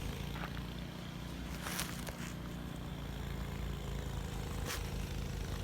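An engine running steadily at low speed, a low hum, with two brief rushing noises, one about two seconds in and one near the end.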